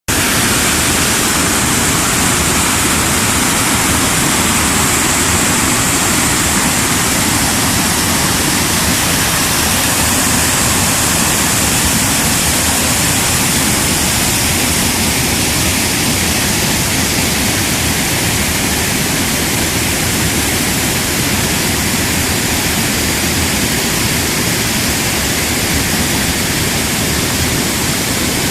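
Blanco River running high after heavy rain, water flowing over the river's crossings in a loud, steady rush.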